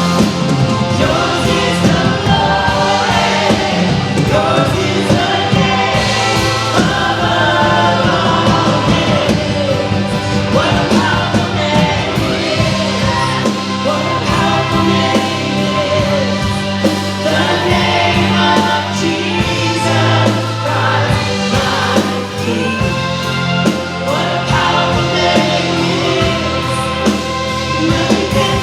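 Contemporary worship band playing a song with sung vocals, backed by a full band with bass and drums.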